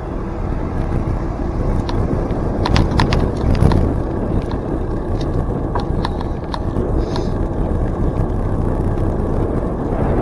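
Steady rumble of wind and tyre noise from a bicycle being ridden, with scattered sharp clicks and rattles.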